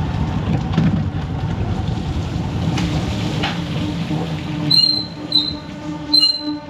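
Motorcycle engine running at low speed, fading after about four and a half seconds, followed by three short high-pitched squeaks near the end.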